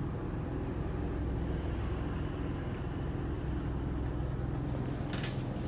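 Steady low mechanical hum, with a brief rustle about five seconds in.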